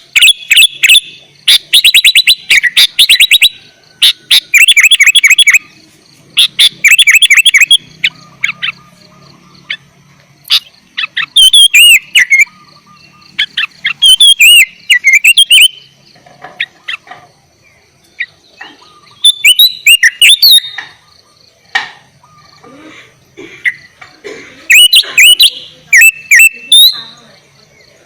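Sooty-headed bulbul (kutilang) singing loudly in short bursts with brief pauses between them: fast runs of repeated chirping notes at first, then more varied, curving whistled phrases through the rest.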